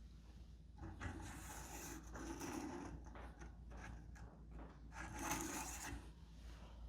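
Parts being handled at a workbench: two stretches of rubbing and scraping, one about a second in and one about five seconds in.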